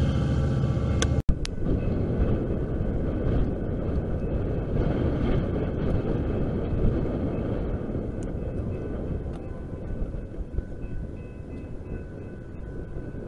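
Music cuts off abruptly about a second in, followed by the steady rumble of a train out of sight, slowly fading, with faint steady tones near the end.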